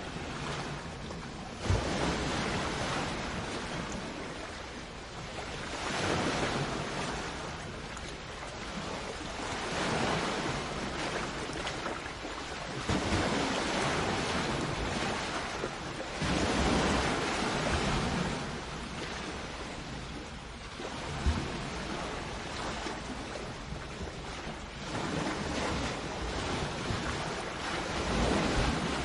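Sea waves breaking on a shore, a wash of surf that swells and ebbs every few seconds, with two brief thumps of wind on the microphone.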